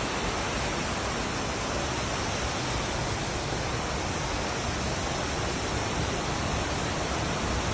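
Steady rushing of a waterfall fed by mountain water.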